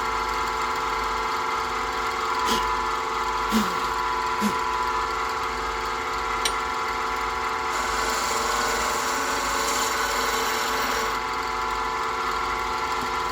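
Wood lathe running steadily with a few short knocks in the first half, and a stretch of brighter hissing from about eight to eleven seconds as the spinning pen blank is worked.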